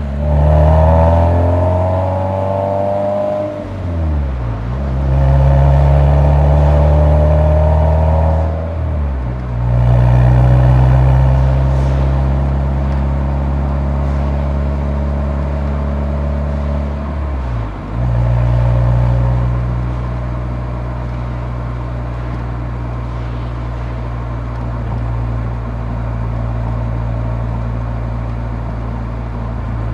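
Nissan 180SX's SR20DE four-cylinder exhaust through the muffler while driving: the engine note climbs over the first few seconds, drops sharply and recovers at about four, nine and eighteen seconds, and otherwise holds a steady cruising drone.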